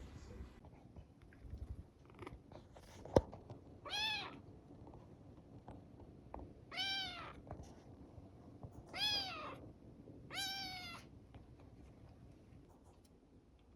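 Young kitten meowing four times, high thin calls that rise and fall in pitch, a second or two apart. A single sharp knock comes just before the first meow.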